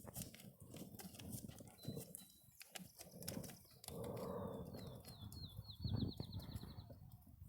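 A horse's hooves stepping at a walk: faint, uneven footfalls. A bird gives a rapid high trill in the background from about the middle to near the end.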